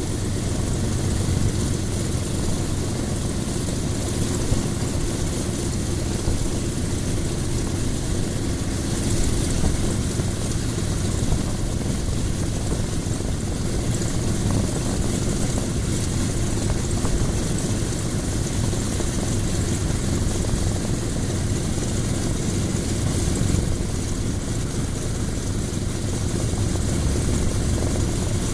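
Douglas A-26B Invader's right-hand Pratt & Whitney R-2800 radial engine running steadily with its propeller turning, on a ground run, its speed holding even.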